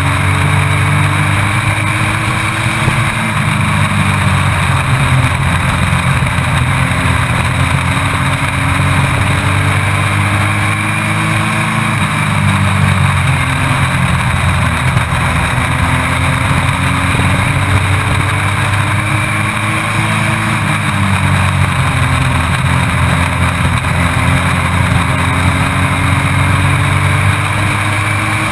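Race truck's engine heard from inside the cockpit at racing speed. Its pitch climbs steadily for several seconds, then drops sharply, about every eight seconds, as the driver lifts for the corners, over a constant rush of wind and road noise.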